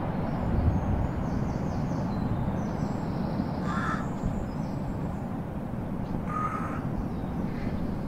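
A bird calling twice, about two and a half seconds apart, with a fainter third call near the end, over a steady low rumble.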